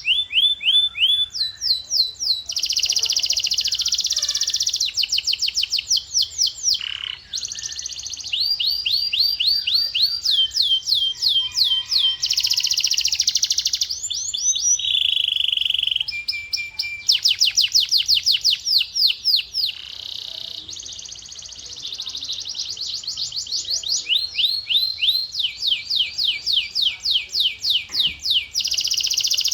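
Male domestic canary singing a continuous song of fast-repeated trilled phrases. Each phrase repeats one sweeping note many times a second for one to two seconds before switching to the next.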